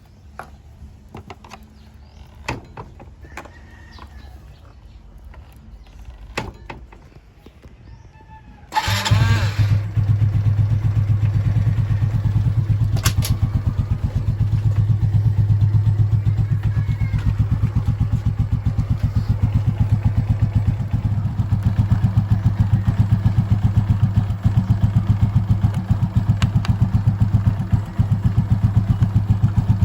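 A few faint clicks and knocks, then about nine seconds in a small single-cylinder Suzuki underbone motorcycle engine starts suddenly and settles into a steady idle with a fast, even pulse.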